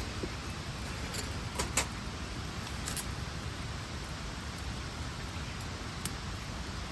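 Steady outdoor background noise, strongest in the low range, broken by a handful of short, sharp clicks.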